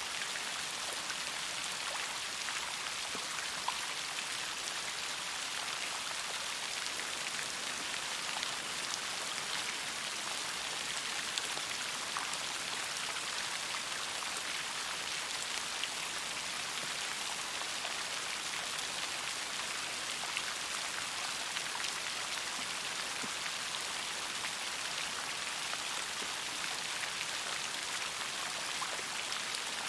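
Steady rain: a constant hiss of falling rain dotted with many small, sharp drop ticks on a surface.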